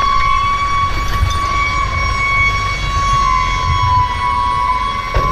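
A single high-pitched tone, held steadily like a stuck horn or alarm, dipping slightly in pitch about three seconds in, over a low rumble.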